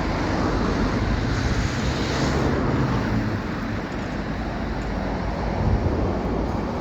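Steady rumble of a freight train of tank wagons rolling past, with wind noise on the microphone.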